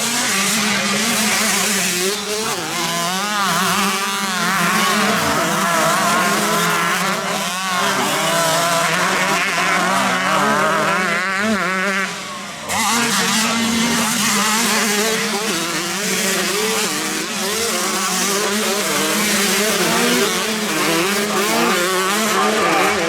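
Several 125cc motocross bikes racing, their engines revving up and down in overlapping waves. The level drops briefly about twelve seconds in.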